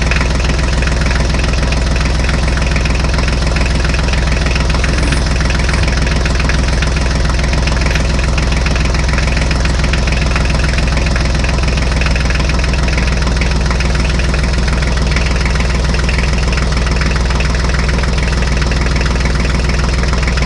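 Diesel tractor engine idling steadily with a fast, even chug.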